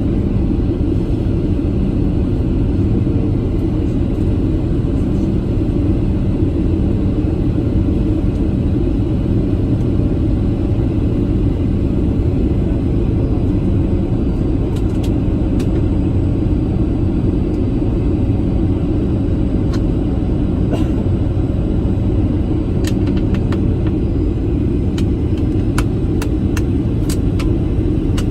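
Steady low rumble of a Boeing 737-800's CFM56 turbofan engines and airflow heard inside the cabin during the approach, with scattered faint clicks in the second half.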